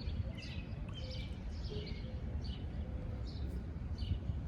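Small birds chirping in short, repeated high calls over a steady low background rumble.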